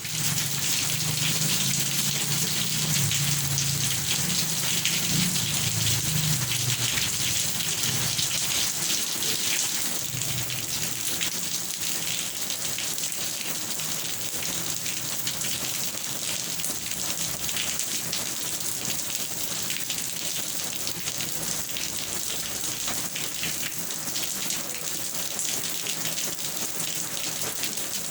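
Steady rain falling, a dense hiss of many drops, with a low rumble underneath for about the first ten seconds; the rain eases slightly after that.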